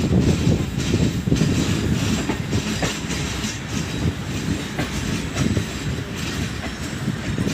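Passenger train running on the rails: a steady low rumble with irregular clacks and knocks from the wheels.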